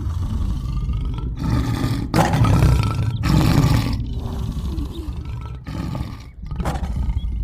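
Lion roar sound effect: several loud roars in a row, with short breaks between them.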